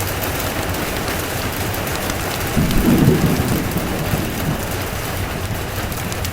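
Steady rain with a low roll of thunder that swells about two and a half seconds in and dies away over the next two seconds.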